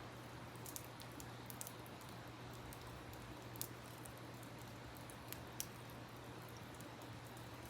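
Wood fire crackling, with irregular sharp pops and snaps, over the steady rush of a river.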